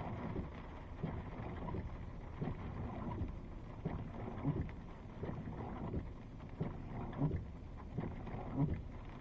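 Thunderstorm rain and wind: a steady low rushing, broken by irregular dull thumps every second or so.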